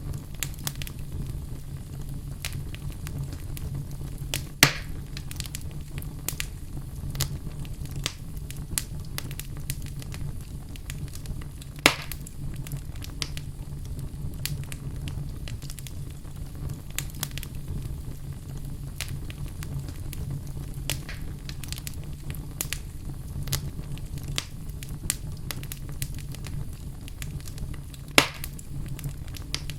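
Wood fire burning in a fireplace: a steady low rumble under frequent small crackles, with three louder pops, about 5, 12 and 28 seconds in.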